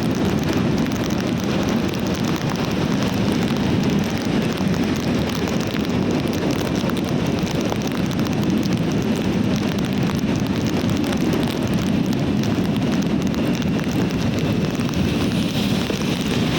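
Heavy rain pouring in a steady, unbroken downpour, a dense rushing noise with fine patter of drops.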